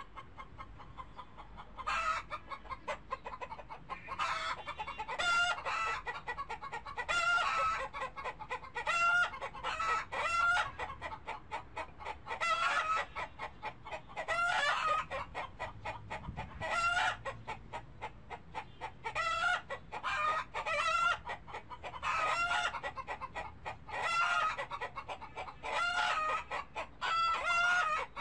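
Birds calling in short, pitched, repeated notes that come in quick clusters every second or two, like farmyard fowl clucking.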